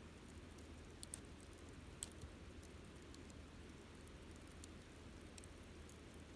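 Campfire burning quietly: a low, steady rush of flame with scattered sharp crackles and pops of the wood, the loudest about a second and two seconds in.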